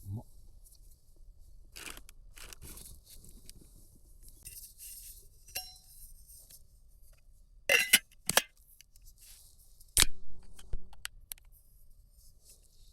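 Camping gear being handled: crinkling and scraping of packaging or fabric, with scattered clicks and a few sharp knocks, loudest about eight and ten seconds in.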